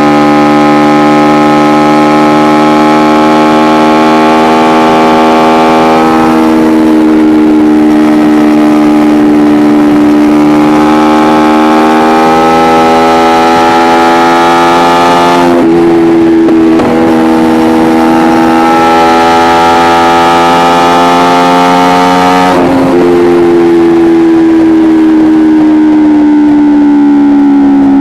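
Kawasaki Ninja 250R's parallel-twin engine through an Akrapovic exhaust, running loud at steady high revs. The pitch shifts abruptly about three times, near 6 s, midway and about 23 s in, and sinks slowly toward the end.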